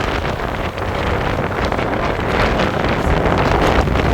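Strong, gusty tropical-storm wind buffeting the microphone, a loud rumbling rush that swells and eases with the gusts.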